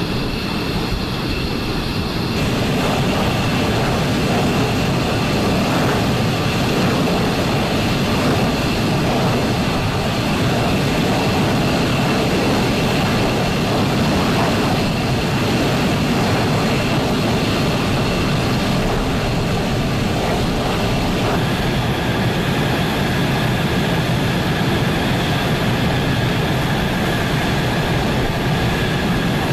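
Fighter jet engines running: a loud, steady rush of noise with high whining tones over it. The sound changes abruptly about two seconds in and again after about twenty seconds.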